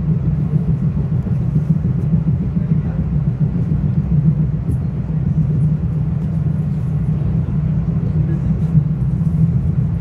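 Inside a Metro-North commuter train car running along the track: a steady, loud low rumble of the wheels and running gear.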